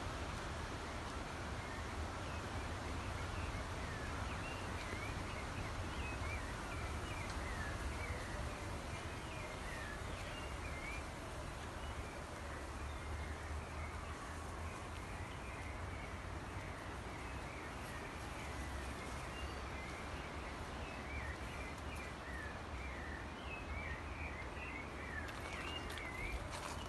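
Outdoor countryside ambience with many small birds chirping throughout, the chirps growing busier near the end, over a steady low rumble.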